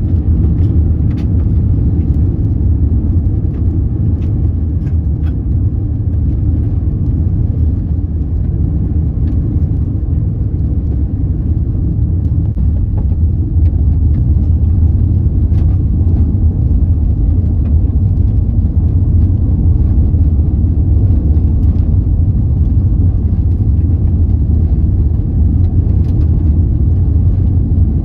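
Steady low rumble of a car driving, road and engine noise heard from inside the vehicle, with scattered faint clicks.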